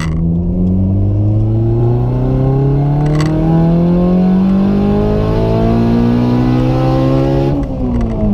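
Turbocharged Honda Civic Si four-cylinder engine at full throttle in third gear, pitch climbing steadily as the revs rise toward redline for about seven and a half seconds, then revs falling sharply near the end. A single click about three seconds in.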